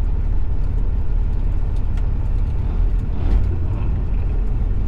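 Steady low rumble of a 2002 Peterbilt 379's Cat C-15 diesel engine and road noise while the truck drives along.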